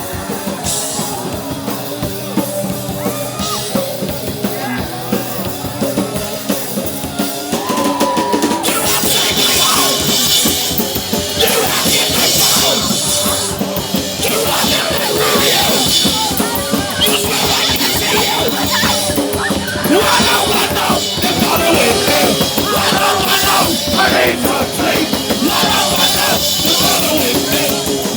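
Live hardcore punk band playing: distorted guitars and a drum kit. The sound is thinner for the first eight seconds or so, then the full band comes in louder.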